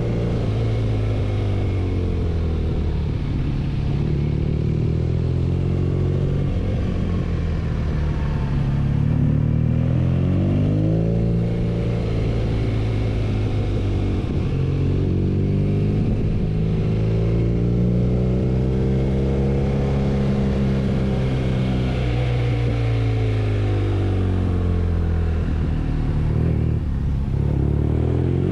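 BMW R nineT motorcycle's air-cooled boxer-twin engine running on the move, its pitch rising and falling several times as the throttle opens and closes, over a steady rush of wind and road noise.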